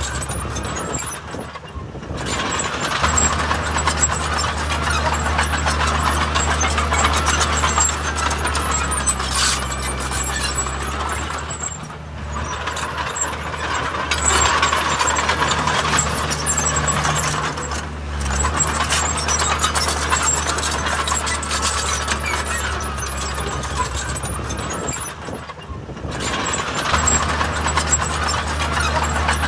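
Heavy diesel construction machinery at work, its engines running steadily under load. The noise eases off briefly about four times before building up again.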